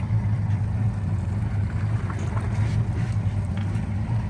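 Motorboat engine running at a steady low hum, with a few faint ticks over it.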